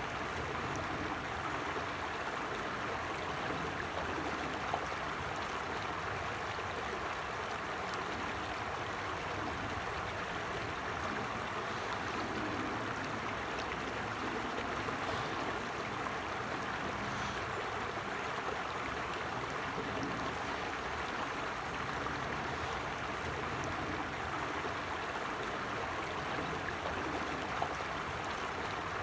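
A shallow stream running steadily over rocks, an even rushing and burbling of water.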